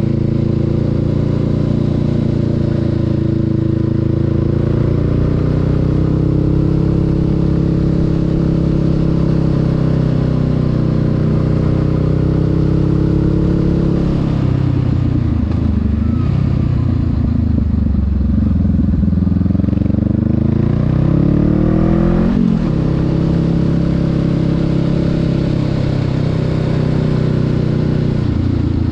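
Honda Rebel 500's parallel-twin engine running under way at steady revs; about halfway the revs drop, then climb, break sharply at a gear change about three-quarters through, and settle back to a steady cruise.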